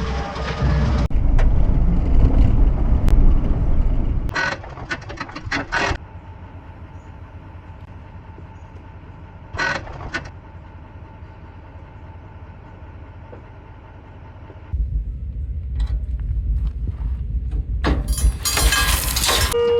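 Truck and dump trailer running with a low rumble, louder at the start and again in the last few seconds, broken by several bursts of rattling and clanking.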